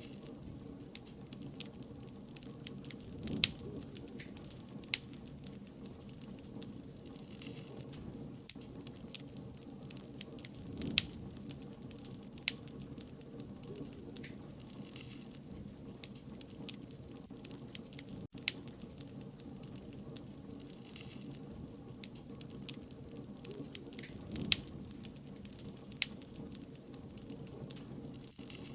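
Wood fire burning: a steady low rumble of flames with irregular crackles and sharp pops, a few louder snaps every couple of seconds.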